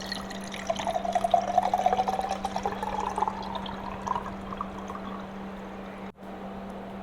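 Pear juice drink with fruit pulp being poured into a glass, the pitch of the pour rising steadily as the glass fills over about four seconds.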